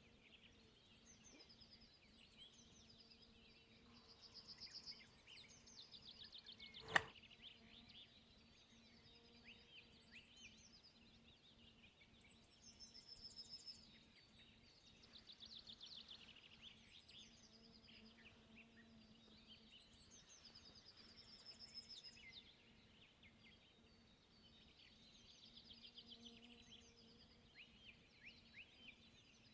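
Faint birdsong: small birds chirping and trilling in short phrases every few seconds over a faint steady hum, with one sharp click about seven seconds in.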